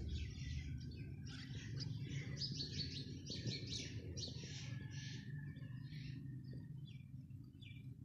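Birds chirping in quick, high, short calls, densest over the first five seconds and thinning out after, over a steady low hum.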